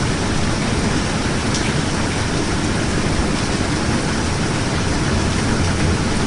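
Steady rain falling, an even wash of noise that is heaviest in the low end.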